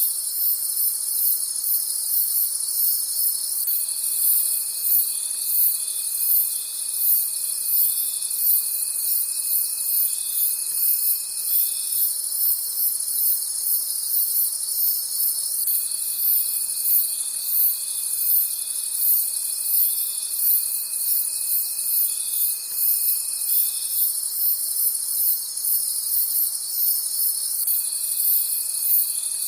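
Night chorus of crickets: dense, fast, high-pitched chirping over a steady trill, with a lower trill that runs for several seconds, stops, and starts again.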